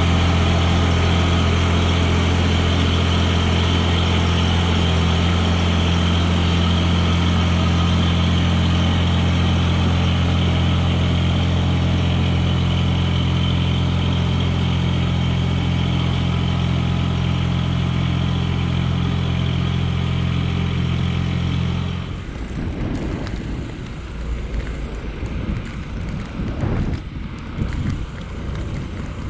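Mahindra eMax 20S compact tractor's diesel engine running at a steady speed. About 22 seconds in it cuts off abruptly, and uneven wind buffeting on the microphone follows.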